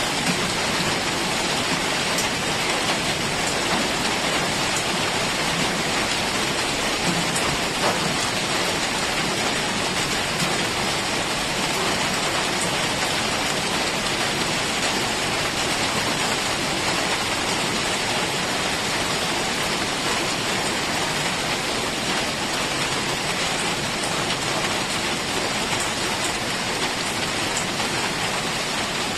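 Heavy rain falling steadily, a dense even hiss of drops on foliage and ground.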